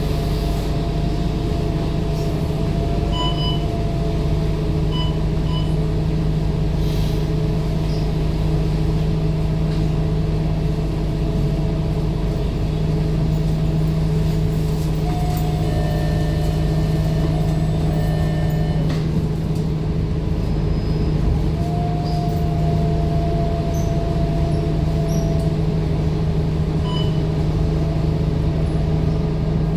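Scania K230UB city bus's diesel engine running steadily under way, a continuous drone with a faint whine above it. A few short, faint high beeps sound around three to five seconds in and again near the end.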